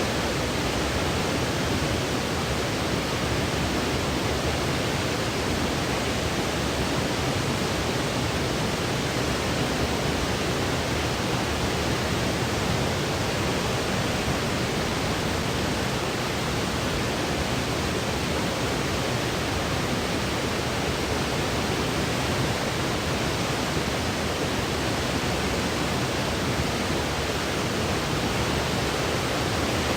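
Steady synthetic noise for sleep: an even, unchanging hiss spread from deep rumble up to high treble, with nothing else over it.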